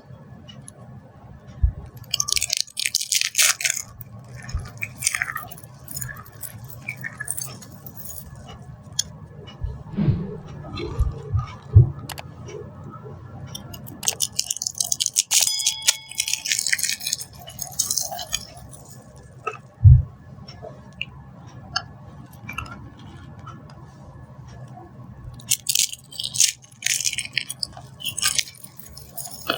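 Dry soap being crushed, crunching and crackling in several bursts of a few seconds each, with a few dull thumps in between.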